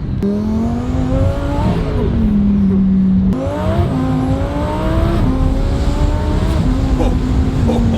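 Twin-turbo Audi R8's V10 engine pulling hard under acceleration. Its note rises, drops back at a gear change about two seconds in, then climbs sharply again about three seconds in and carries on through further shifts.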